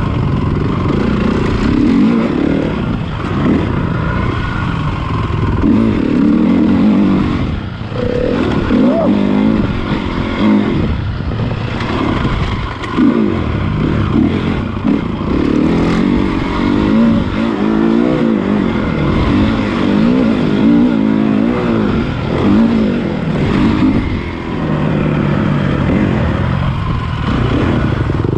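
Honda CRF450 motocross bike's single-cylinder four-stroke engine revving hard as it is ridden, its pitch climbing and dropping again and again with the throttle and gear changes.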